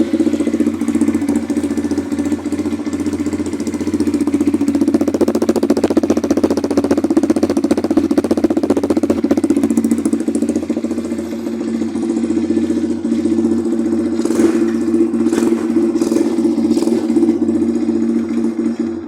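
Motocross bike's LEM 140 engine running steadily at a nearly constant speed, with a few sharp clicks late on.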